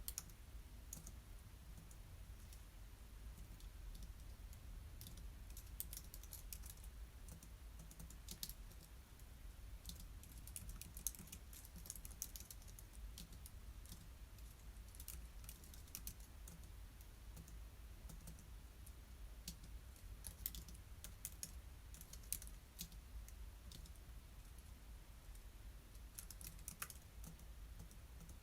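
Typing on a computer keyboard: light key clicks in irregular runs, over a faint steady low hum.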